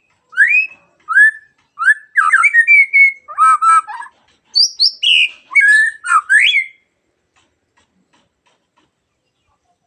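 Murai songbird singing a fast run of loud rising whistles mixed with rattling notes, which stops about seven seconds in.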